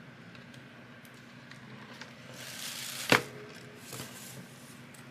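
Folded paper being handled: a short rustle that builds for under a second and ends in one sharp tap about three seconds in, with a smaller knock a second later and a few faint ticks.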